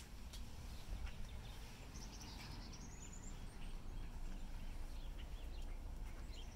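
Outdoor ambience with birds chirping in short high notes and one rising whistled call about two seconds in, over a low rumble.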